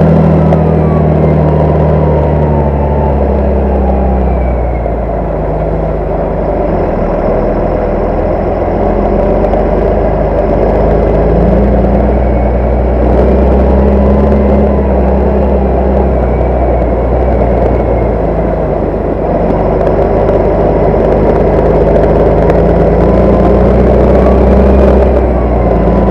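Large farm tractor's diesel engine running steadily and loudly under load. Its pitch eases up and down, and a faint whine rises and falls above it.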